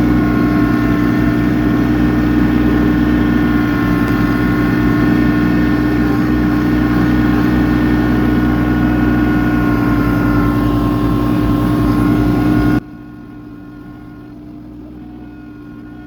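Kubota tractor's diesel engine running steadily while driving its snowblower, a loud even hum. About three-quarters of the way through the sound drops suddenly to a much quieter engine hum.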